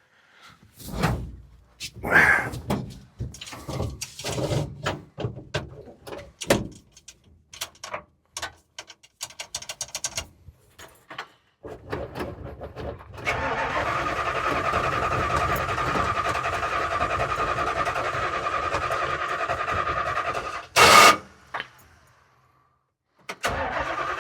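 Starter cranking a Chrysler 318 V8 in a Dodge pickup: a steady churning whir that does not catch. It follows a run of knocks and clatter, stops after a brief loud burst, and resumes near the end. The engine has sat since last summer, and the owner wonders whether it is out of gas.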